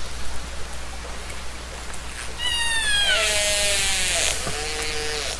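Killer whale (orca) calls over a steady hiss. About two seconds in comes a call with many harmonics that slides downward, then a loud buzzing pulsed call, then lower drawn-out tones that fade near the end.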